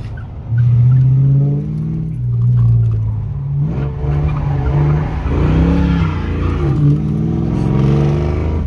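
Mustang engine being driven hard on an autocross course, its pitch climbing and dropping back several times as it accelerates and lifts.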